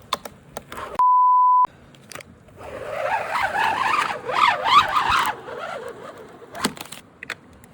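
A sticker being peeled off a motorcycle, its adhesive tearing away with a squealing, screechy rip for a few seconds in the middle, among small clicks and handling sounds. About a second in, a short steady beep, the loudest sound, is heard.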